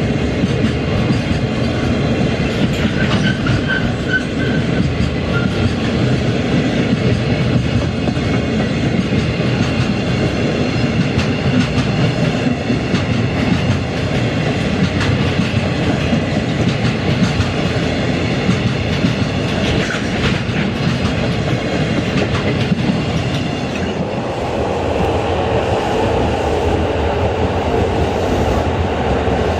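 Freight train rolling past, a loud, steady rumble of wagon wheels with clickety-clack over the rail joints.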